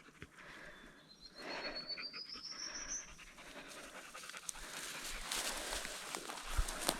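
A dog panting, with a thin rising whistle-like call lasting about two seconds, starting about a second in; the panting grows denser in the second half.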